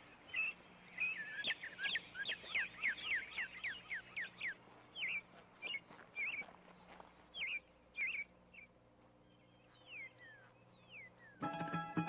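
Birds chirping: a fast run of short falling notes, about four a second, then scattered chirps and a couple of longer falling whistles. Plucked guitar music comes in near the end.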